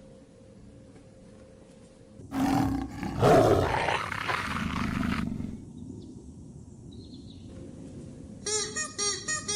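A large animal's loud, harsh roar lasting about three seconds, in two parts. Near the end a fast run of short, repeated pitched calls starts, about four or five a second.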